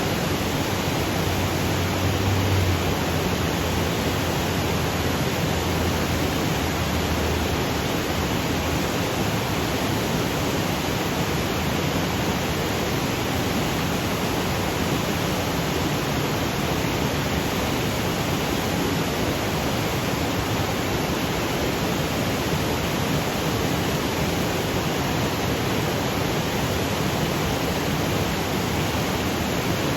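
Waterfall cascading over granite boulders: a steady, even rush of falling water.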